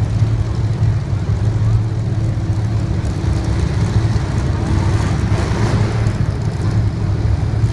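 Race cars' engines running during a feature race, a continuous loud rumble that holds steady throughout.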